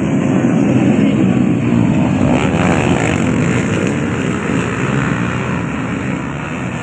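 Off-road racing motorcycle engines running at high revs in a dense, continuous din, with one engine's pitch swinging up and down about two and a half seconds in. The din eases off slightly toward the end.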